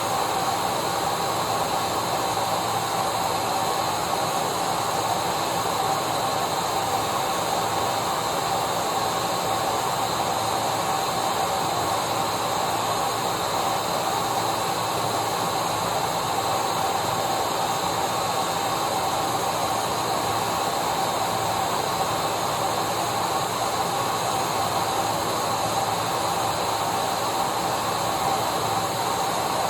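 Electric vacuum cleaner motor running steadily: an even rushing hiss with a constant whine, no change in speed or pitch.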